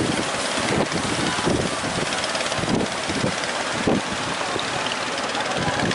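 Strong wind buffeting the microphone, giving irregular low thumps over a steady rushing noise.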